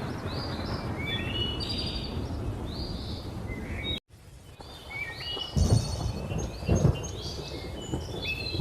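Many birds chirping and calling over a steady low rumble of thunder and rain. The sound drops out for a moment about halfway, then two loud rolls of thunder come about a second apart.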